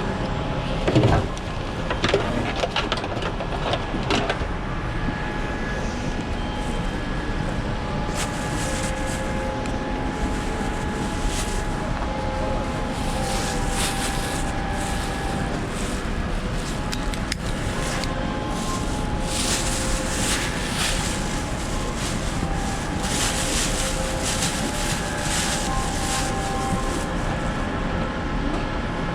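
Steady hum of airliner air-conditioning while passengers board a Boeing 787-9, with a few knocks about one to four seconds in and scattered rustling later.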